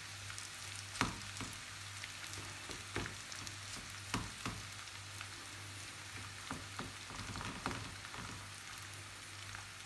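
Shredded cabbage and carrot sizzling in a frying pan as a spatula stirs them, with sharp knocks of the spatula against the pan several times, the loudest about a second in.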